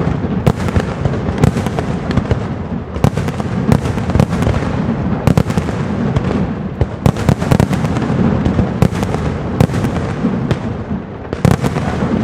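Castillo aerial fireworks display: a continuous barrage of shell bursts and crackle over a low rumble, with sharp bangs every second or so.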